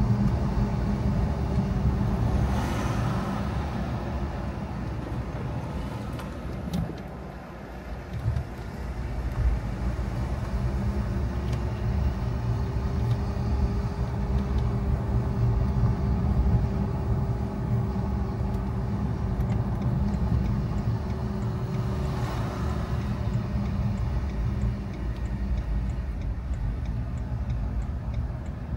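Car driving, with a steady low engine and road rumble and a faint held whine. The sound eases off about seven seconds in, then picks up again. Two brief swells of rushing noise come a few seconds in and again about two-thirds through.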